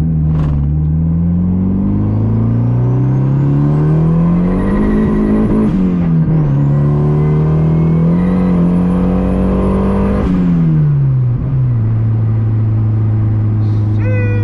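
Honda H-series engine in an H2B-swapped Civic pulling hard through two gears. The revs climb for about five seconds, drop at a gear change, climb again, then fall away and settle to a steady drone about twelve seconds in. A high whine rises with the revs on each pull.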